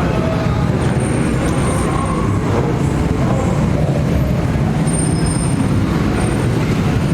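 Steady, loud low rumble of a vehicle running, with no clear changes in pitch.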